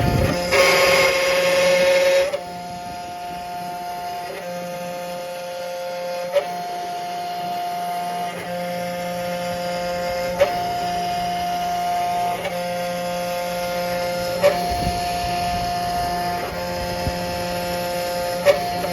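CNC machine's stepper motors whining as it engraves, the pitch switching between two steady tones about every two seconds, with a short click at each change of move.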